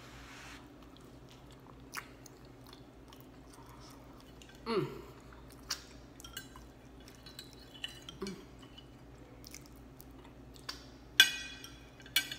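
A person chewing a mouthful of chicken pot pie crust, with soft scattered mouth clicks. Near the end comes one sharp ringing clink, a metal fork set down on a ceramic plate.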